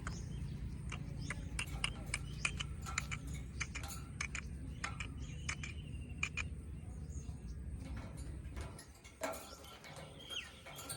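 Indian ringneck parakeets making many short chirps and clicks, with a brief chirp near the end, over a low hum that stops about nine seconds in.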